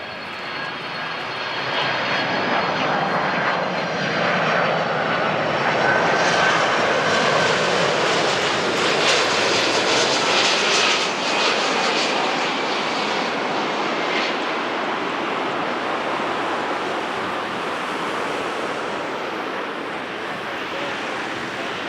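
Jet airliner engines close by, a loud rushing noise with a faint high whine. It swells over the first few seconds, peaks in the middle, then slowly fades as the aircraft passes.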